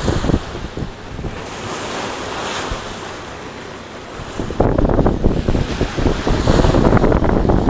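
Wind buffeting the phone's microphone over the rush of sea water against a boat's hull in open-water swell. The buffeting gets much louder about four and a half seconds in.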